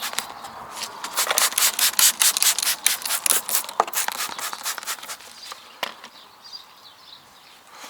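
Meguiar's Hyperdressing being applied to black plastic wheel-arch trim: a fast run of short hissing strokes, about five a second, that thins out and fades after about five seconds.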